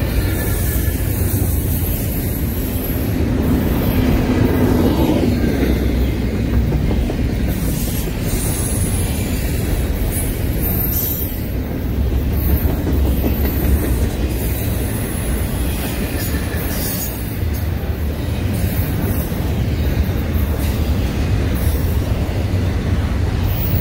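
Double-stack intermodal freight train's well cars rolling past: a steady rumble of steel wheels on rail, with clicks as wheels cross rail joints and a high squeal now and then.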